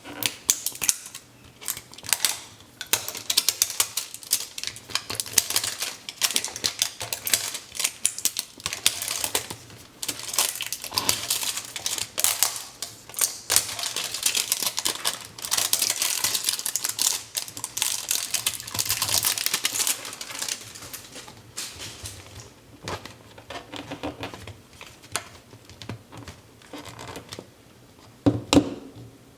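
Hands opening a giant plastic toy surprise egg: a steady run of crinkling, crackling and clicking from its wrapping and plastic shell, busiest in the middle and thinning out toward the end.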